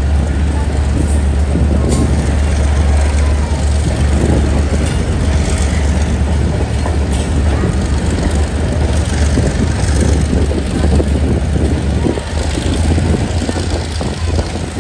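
Diesel-hauled GMU-15 passenger train running: a steady low engine drone under a constant rumble of wheels on rail, with scattered short knocks.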